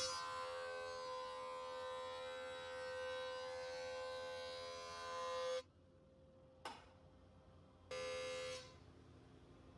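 Electric power tool running with a steady whine, stopping abruptly a little past halfway and coming back briefly near the end.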